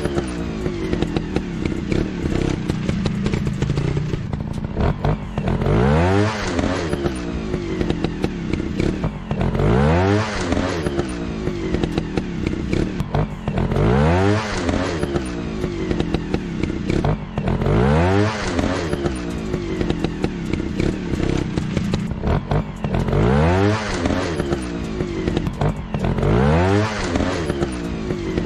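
Dirt bike engine revving up and back down over and over, about every four seconds, with rattly clatter between the revs.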